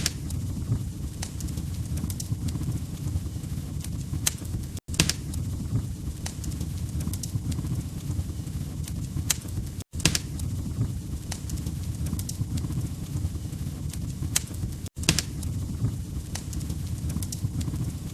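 Log fire crackling, with sharp pops and snaps over a low steady rumble. The same short stretch repeats about every five seconds, cutting out for an instant at each seam.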